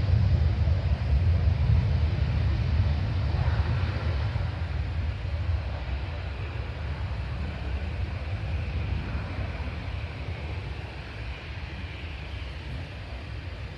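Jet airliner's engines rumbling low as it passes and recedes, fading steadily, with a faint whine above the rumble.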